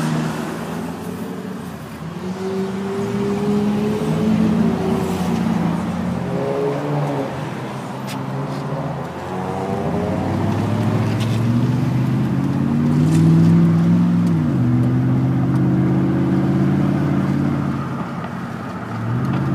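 Road vehicle's engine heard from inside the cabin as it pulls away and accelerates, its note climbing and then dropping back at gear changes, about ten and fourteen seconds in, over steady road noise.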